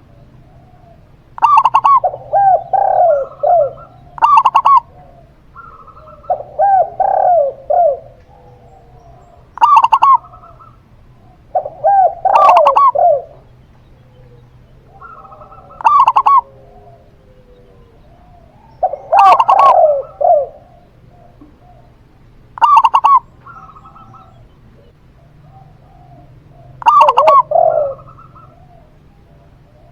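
Zebra dove (perkutut) and spotted dove (tekukur) cooing in repeated phrases, one every few seconds; each phrase opens with a sharp, high note and runs into a quick string of lower coos.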